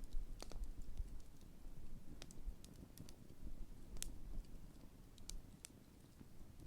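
Large wood campfire burning down, with irregular sharp crackles and pops of the burning wood over a low rumble of the flames.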